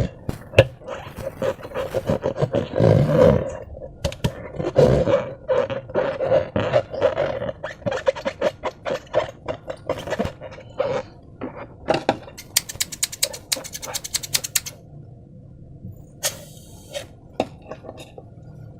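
Slime being squished and worked by hand, with a dense series of wet squelches and clicks. A steady tone runs through the first half, and a rapid crackle of clicks lasts about two seconds after the middle.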